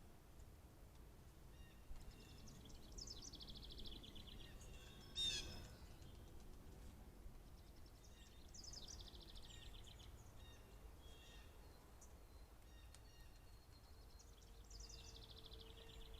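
A small songbird sings a quick trill of rapidly repeated high notes three times, about six seconds apart. There is one brief, louder harsh noise about five seconds in, over a faint low rumble.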